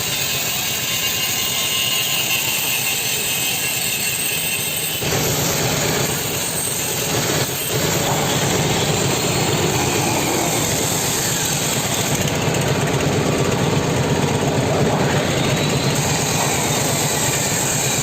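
Tractor diesel engine running steadily under load, driving a belt-pulley fan rig, with a steady rushing noise on top. The sound changes abruptly about five seconds in and again a couple of seconds later.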